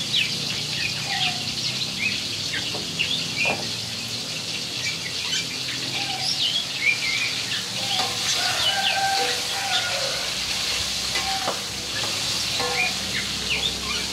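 Eggplant sambal sizzling in a wok on a gas stove, a metal spatula stirring and scraping it now and then with a few sharp clicks. Birds chirp throughout.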